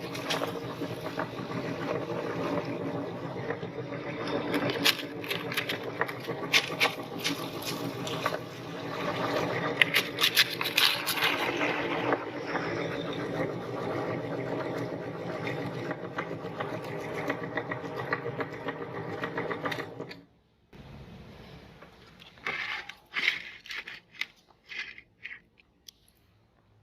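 Electric meat grinder's motor running steadily, with crackling and crunching as something is ground through it in the first half. The motor cuts off about three quarters of the way through, leaving a few short crackles.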